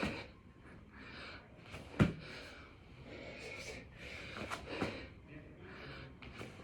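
Hard, repeated breathing of a man doing six-count burpees, with a loud thud about two seconds in and a few lighter thuds of hands and feet landing on the floor.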